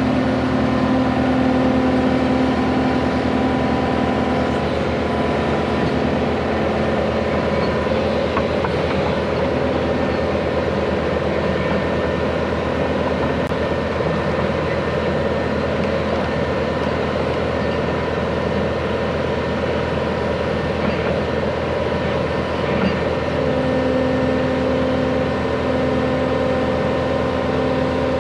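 Excavator's diesel engine running steadily under load, with steady tones over it, as it drags a water line plow through the ground.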